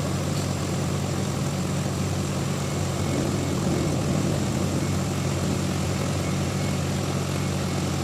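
A heavy machine engine running steadily at a constant pitch.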